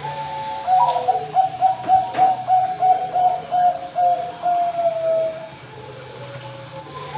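Zebra dove (Bangkok-type perkutut) singing one full song phrase: a higher opening note, then a run of quick coos at about three per second ending on a longer drawn-out note about five seconds in. A new phrase starts near the end, over a steady low hum.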